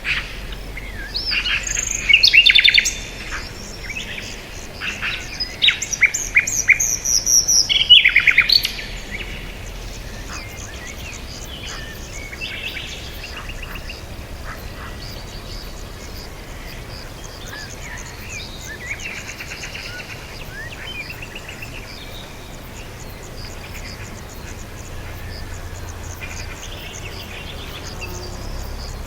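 Small birds chirping and trilling in quick, high calls, loud and busy for the first nine seconds or so, then thinning to fainter scattered chirps.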